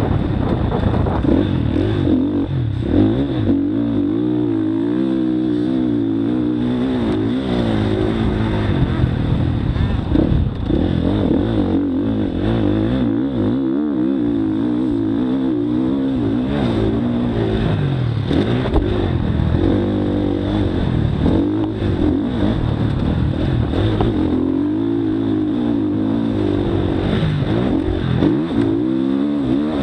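Motocross bike engine revving hard, its pitch climbing and dropping over and over as the throttle is worked.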